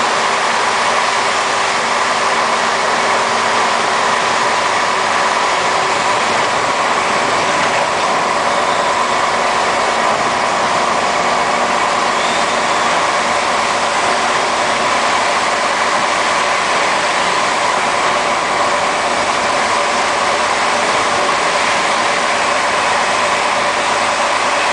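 Scania 110 Super truck's turbocharged six-cylinder diesel running steadily, a loud even drone with no change in pitch.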